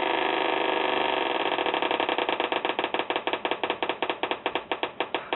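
Theremin played through a speaker: a steady electronic tone that, about a second and a half in, breaks into rapid pulses which gradually slow down.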